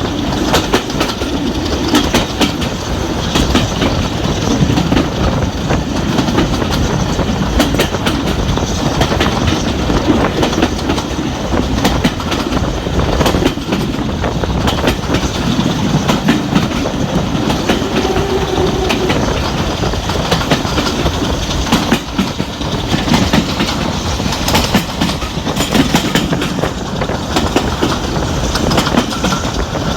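Steam-hauled heritage passenger train running along the line: a steady rolling rumble from the coaches' wheels, with frequent sharp clicks as they pass over the track.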